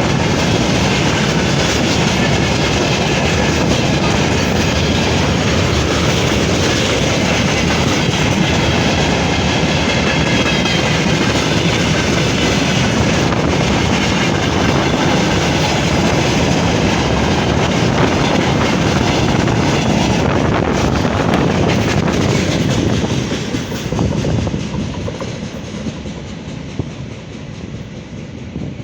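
Freight train's wagons rolling past, their wheels clattering over the rail joints in a steady loud rumble. It fades away over the last five seconds or so as the train moves off.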